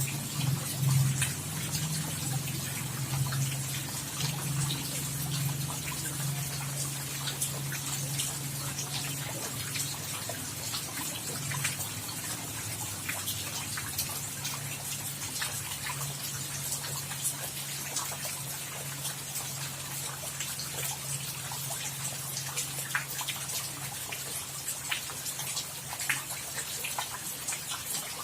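Rain falling steadily, a dense hiss full of small drop ticks, over a steady low hum that eases off after about ten seconds.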